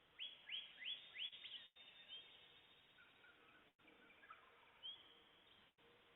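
Songbirds singing: a quick run of four rising whistled notes near the start, then single rising notes every couple of seconds, with softer, lower calls from another bird in the middle.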